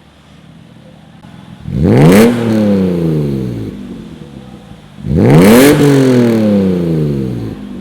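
BMW M Z3's straight-six engine blipped twice through a Varex twin-tip exhaust: a low idle, then a quick rev about two seconds in that falls slowly back, and a second rev about five seconds in that falls the same way.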